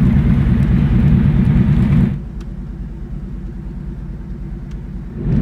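Devel Sixteen hypercar's engine running with a deep rumble. It is loud for about two seconds, drops quieter, and swells loud again near the end.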